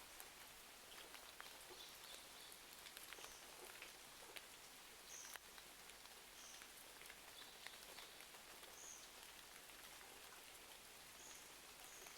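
Faint steady rain hiss with scattered sharp ticks and crackles, as of raindrops and a wood fire, and short high chirps now and then.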